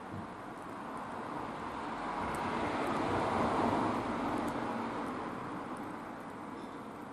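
A vehicle passing by: a rushing noise that swells to a peak around the middle and then fades away.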